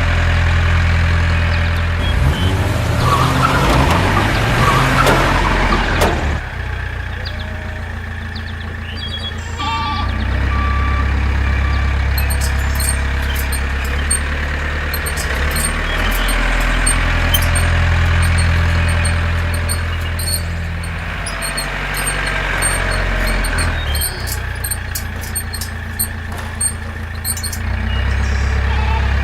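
An engine running with a steady low drone that swells and fades several times. A noisy clattering stretch comes a few seconds in.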